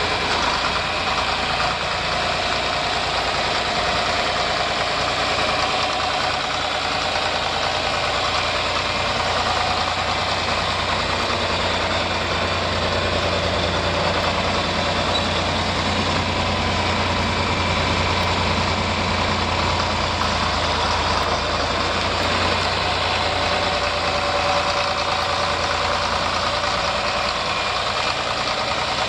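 John Deere 4020 tractor's six-cylinder engine running steadily.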